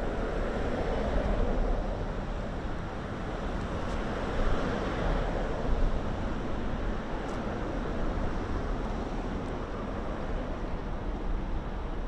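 Outdoor city ambience: a steady rushing noise over a low rumble, swelling twice and easing off again.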